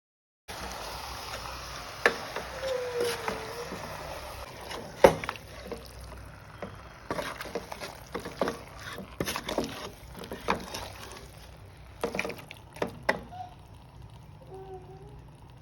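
Food frying in a pan with a steady sizzle, and a spatula knocking and scraping against the pan as the masala is stirred. The sizzle dies down in the last few seconds.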